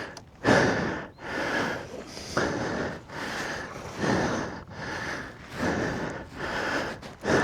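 Heavy, rhythmic breathing of a rider out of breath after exertion, a string of quick panting breaths, each under a second, close to the helmet microphone.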